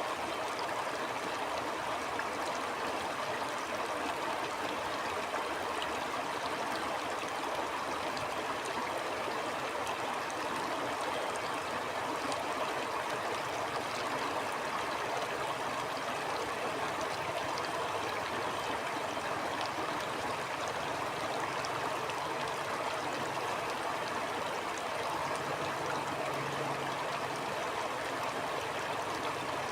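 Stream water flowing steadily over rocks, with an even rushing and fine babbling.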